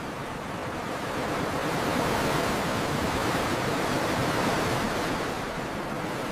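Ocean surf: a steady rush of breaking waves that swells gently about two seconds in and eases off near the end.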